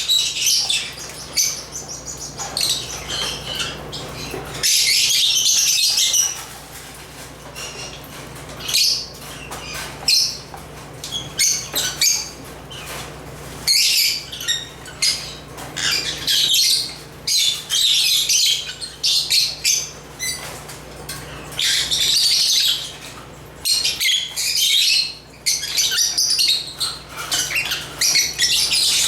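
African lovebirds chirping and squawking in bursts of shrill high calls, some a second or two long, with short gaps between them. A faint steady low hum lies underneath.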